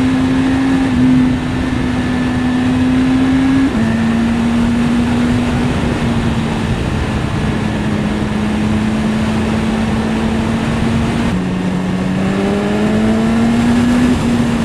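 BMW S1000RR's inline-four engine running at a steady pitch under way, with its pitch dropping in steps about a second in, near four seconds and just after eleven seconds, then rising steadily as the bike accelerates near the end.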